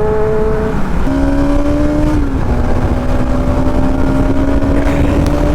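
Motorcycle engine accelerating through the gears. Its pitch steps down at two gear changes about one and two seconds in, then climbs steadily, under constant wind rush.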